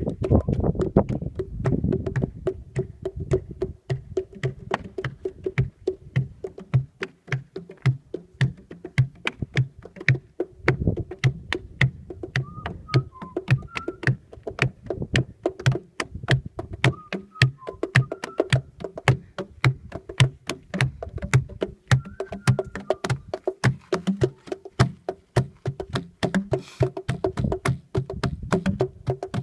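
Several people drumming by hand on boulders, which ring like drums: a fast, steady rhythm of sharp knocks over deep thumps about twice a second. Wind buffets the microphone in the first few seconds.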